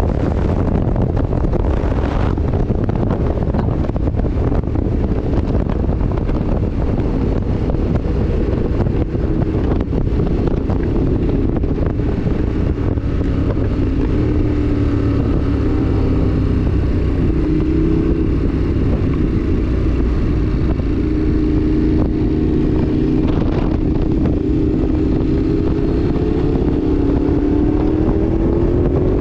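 Motorcycle engine running under way, under constant wind buffeting on the microphone. The engine note sinks slowly through the middle and climbs again near the end as speed changes.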